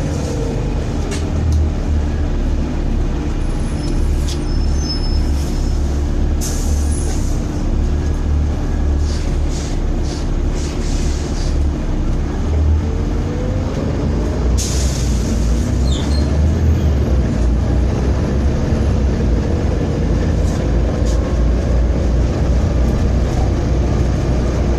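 Volvo B7TL double-decker bus diesel engine running on the road with a heavy low drone, its pitch rising and falling as it accelerates and changes gear, the bad engine vibration the bus is known for. Short rattles and a couple of brief hisses are heard over it.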